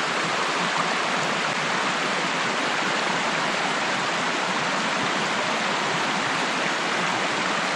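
Steady rushing of water in a stream, with no change in level.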